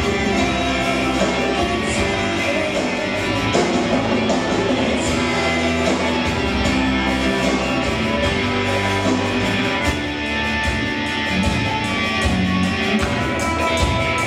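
Rock band playing a song live, with guitars over a steady drum beat; the uploader calls it terribly botched.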